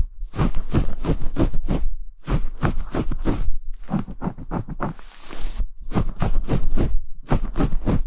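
Quick scratchy scrubbing strokes rubbed against a binaural ASMR microphone, about four a second, in bursts of four to six strokes with short pauses between.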